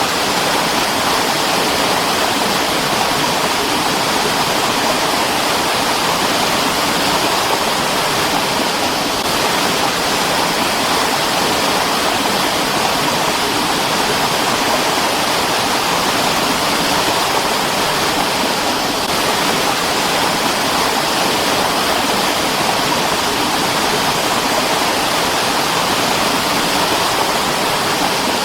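Mountain stream flowing steadily: a constant rushing of water over rocks.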